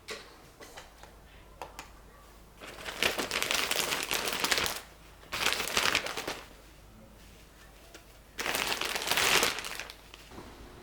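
Plastic packaging crinkling and rustling as it is handled, in three bursts of one to two seconds each, with a few light clicks between them.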